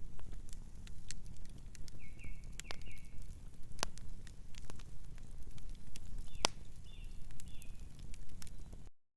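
Wood fire crackling: a steady low rumble of burning with scattered sharp pops, two of them much louder at about four and six and a half seconds. A distant bird calls twice, each time with a few short chirps. The sound cuts out for a moment near the end.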